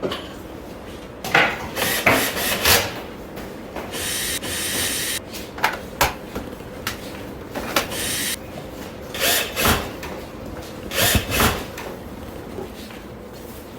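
Irregular knocks, scrapes and rubbing of equipment being handled and moved about, with two steady hissing stretches, one about four seconds in and one about seven seconds in.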